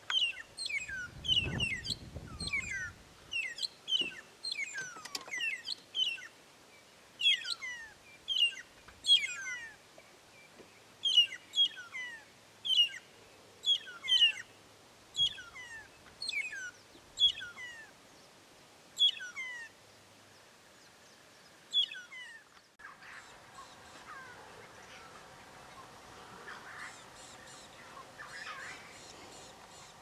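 Magpie shrikes calling: a run of clear whistles, each sliding down in pitch, about one a second for some twenty seconds, with a brief low rumble in the first few seconds. About 23 s in the calls stop at a cut, leaving a fainter, steady bush ambience with faint bird calls.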